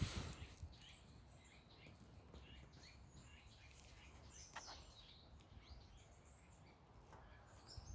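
Faint outdoor ambience of scattered bird chirps over a low, steady rumble, with a brief bump right at the start.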